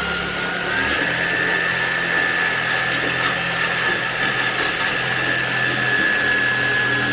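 Corded mains electric drill running steadily at speed, its high whine rising a little in pitch about a second in as the trigger is squeezed further.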